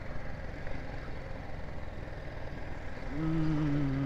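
Motorcycle ride noise from a BMW G 310 GS's single-cylinder engine, with wind and road sound, running at low speed. About three seconds in, a louder low droning tone sets in and sags slightly in pitch.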